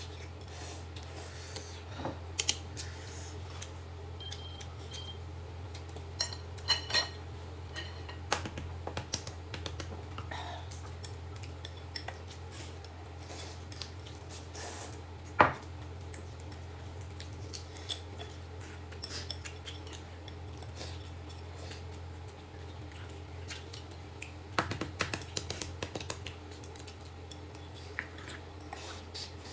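Eating utensils clinking and tapping against bowls and plates during a meal, in scattered light clicks with a sharper knock about halfway through and a quick flurry a few seconds before the end, over a steady low hum.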